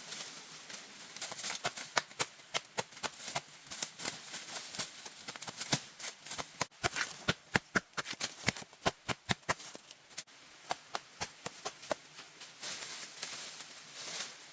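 A quick, irregular series of sharp clicks or knocks, several a second, loudest and densest in the middle, over a faint steady background noise.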